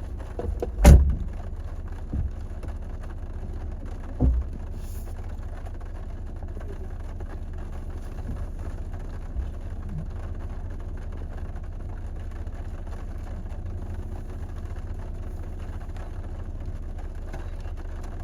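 Jeep engine running steadily as a low rumble, with a few thumps in the first four seconds, the loudest about a second in.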